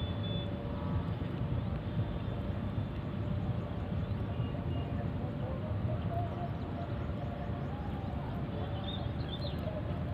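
Outdoor ambience: a steady low rumble, with faint high chirps near the end.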